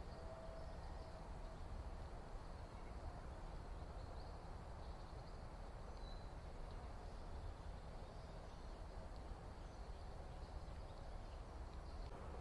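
Backyard outdoor ambience: a steady low rumble and hiss with a few faint, brief bird chirps.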